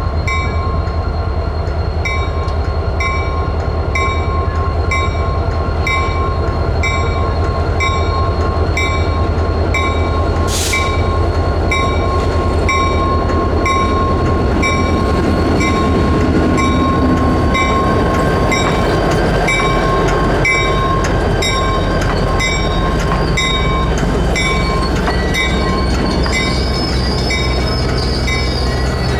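EMD GP30 diesel locomotive running, with its bell ringing steadily at about one and a half strokes a second over the low rumble of the engine and train.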